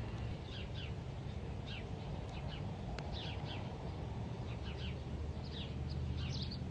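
A small bird with its foot tangled in a bush, chirping over and over in short, falling chirps, often two or three in quick succession.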